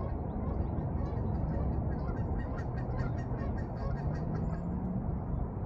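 Geese honking repeatedly over a steady low outdoor rumble.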